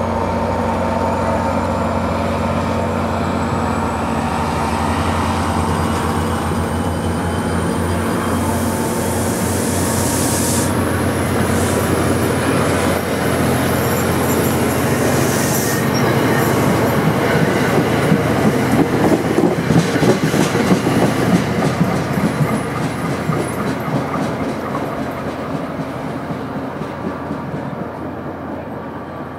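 A diesel-hauled commuter passenger train passing. The locomotive's engine hums steadily at first, with a thin high whine slowly rising in pitch. Then the passenger cars' wheels clatter over the rail joints, loudest about two-thirds of the way through, and the sound fades away near the end.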